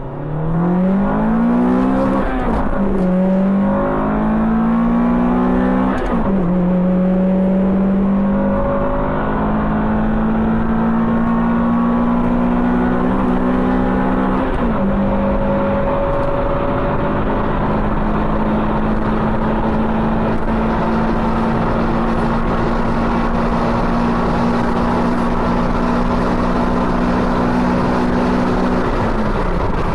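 Honda B20 VTEC four-cylinder engine in a Civic EG coupe at full-throttle acceleration, heard from inside the cabin. The engine revs up to about 8,000 rpm and drops in pitch at three upshifts, about two, six and fifteen seconds in. Each gear climbs more slowly, and the pitch falls away at the very end.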